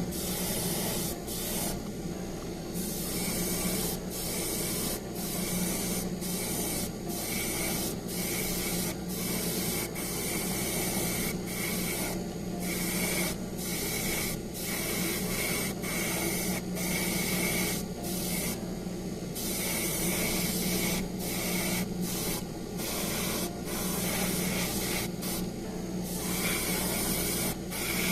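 Airbrush spraying paint onto plastic model engine parts: a steady hiss, broken by many brief pauses as the trigger is let off, with a steady hum underneath.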